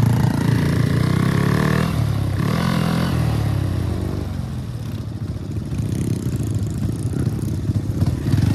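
Honda Wave 110i single-cylinder four-stroke motorcycle engine, bored out with a 56 mm piston, accelerating hard through the gears: the pitch climbs, drops at a shift about two seconds in and climbs again. After about four seconds it settles to a lower, steadier note.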